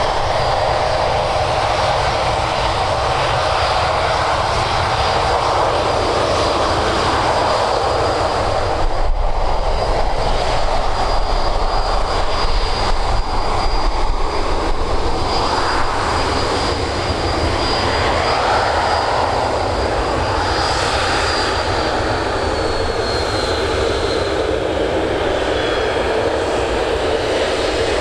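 Boeing 737-800's CFM56 jet engines at take-off power on departure: a loud, steady jet noise that swells with a deeper rumble about a third of the way in. Near the end a high whine falls in pitch as the aircraft passes.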